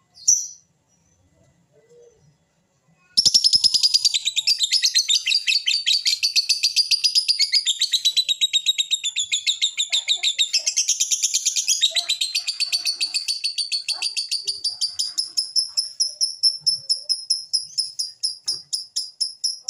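A bird calling: a short chirp, then from about three seconds in a long, fast trill of high notes at about six a second.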